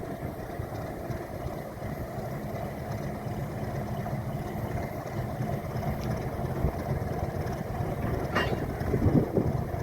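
Alco RS8 diesel locomotive engine running steadily while shunting, with most of its sound low in pitch. A brief sharper sound cuts through once about eight and a half seconds in.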